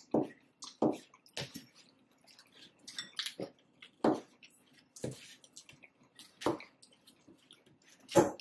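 A person chewing and eating taco salad: about ten short, irregular mouth and bite noises with quiet gaps between them, the loudest near the end.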